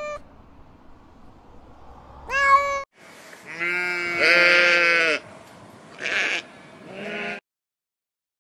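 A domestic cat meowing, a short call at the start and a rising meow about two seconds in. Then a sheep bleating: one long wavering bleat of about a second and a half, followed by two shorter bleats.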